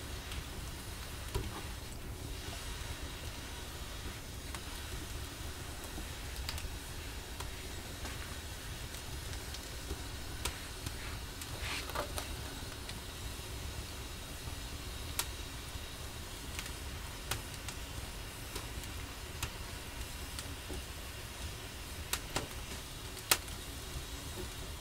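Wood fire burning in a fireplace oven, with scattered sharp crackles and pops over a steady low rumble; one louder pop near the end.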